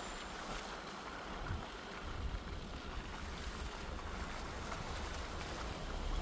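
Steady rushing outdoor noise with wind buffeting the microphone in irregular low rumbles.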